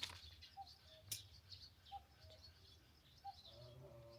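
Faint birds calling: a short note repeated about every second and a half, over soft high chirps. A single sharp click comes about a second in.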